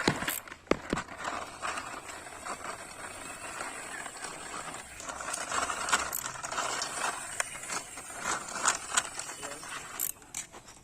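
Toy car rolling and rattling, with irregular plastic clicks and knocks and a rough, uneven rolling noise that grows a little louder about halfway.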